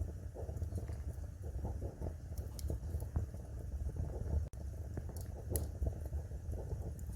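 Wood fire crackling: irregular sharp pops and snaps over a low steady rumble of flame. There is a momentary gap in the sound about halfway through.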